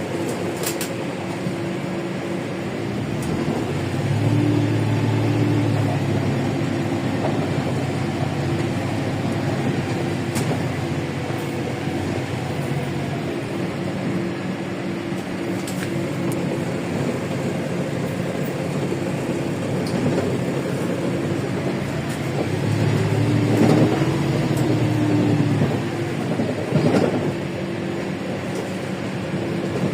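Interior sound of a LiAZ 5292.65 city bus on the move: its Yuchai diesel engine runs steadily under road and cabin noise. The engine note swells about four seconds in and again near the end as the bus pulls away or accelerates, with a few light rattles from the body.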